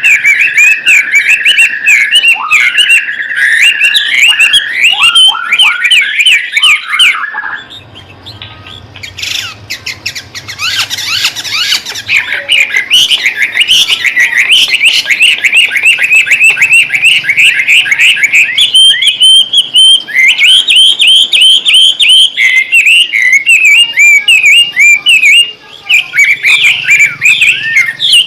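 White-rumped shama (murai batu) singing a busy, fast song: rapid strings of short rising and falling whistled notes with little pause, easing into a quieter lull about eight seconds in before picking up again.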